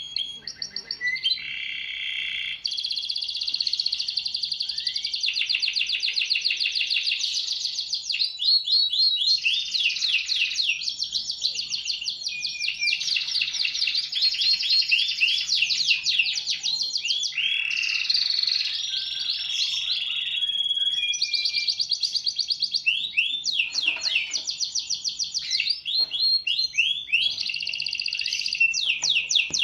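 Domestic canary singing nonstop: fast rolling trills and runs of repeated chirps, the phrase changing every second or two.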